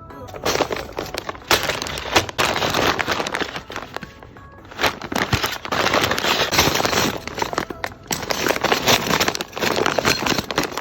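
Plastic packing material crinkling and crackling as it is handled, in three long stretches of rustling with short pauses between.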